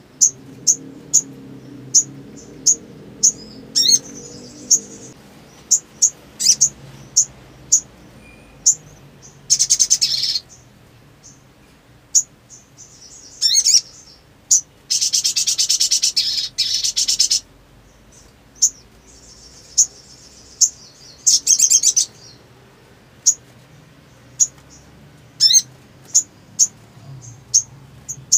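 Sunbird song: a string of sharp, high chips about every half second, broken by rapid buzzy trills, the longest lasting about three seconds midway through.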